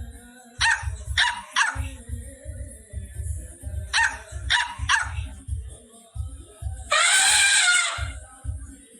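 A dog barking in two quick bursts of three barks over background music with a steady beat. Near the end comes one long, loud call.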